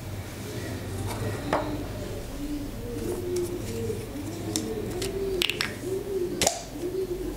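A bird cooing in a string of short, low coos that starts about two and a half seconds in, with a few sharp clicks, the loudest about six and a half seconds in.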